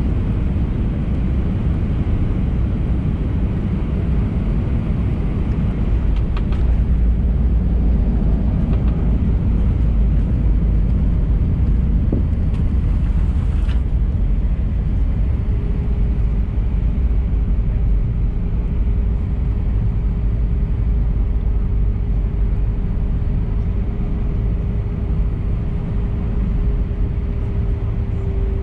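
Airliner cabin noise inside an Airbus A319-111 with CFM56 engines: a steady, loud low rumble of airflow and engines. About halfway through, a faint steady engine tone comes in and sinks slightly in pitch near the end.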